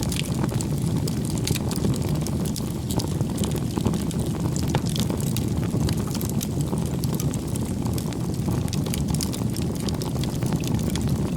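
Bonfire of firewood burning: a steady low rumble of flames with frequent sharp, irregular crackles and pops from the wood.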